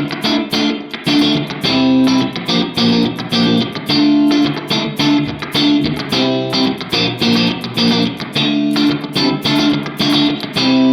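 Clean electric guitar played in quick picked notes and chords through a Donner Versa Yellow Fall 2 pedal's hall reverb. The reverb is set to a short decay and high level, giving a real quick kind of reverb feedback.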